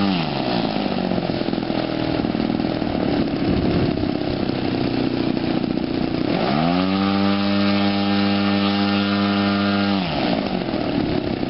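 Engine of a giant-scale RC Extra 330L model plane being run up on test. At the start it is throttled back from full power to a low, rough idle. About six seconds in it is run back up to high revs, held steady for three or four seconds, then throttled down again near the end.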